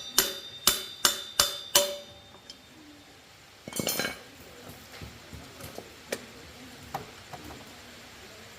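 Five sharp metal-on-metal strikes that ring, about two a second, like hammer blows on steel, followed a little under four seconds in by a short metallic rattle and a few light clicks.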